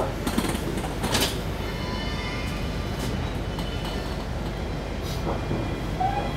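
Interior of a passenger train carriage as the train pulls out of a station, with a steady low rumble. A couple of sharp knocks come in the first second and a half, and faint high whining tones follow for a couple of seconds.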